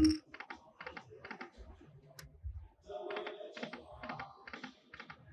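Lightning Link slot machine in play: a loud knock at the start, then rapid runs of clicks as the reels stop, mixed with short electronic chime tones.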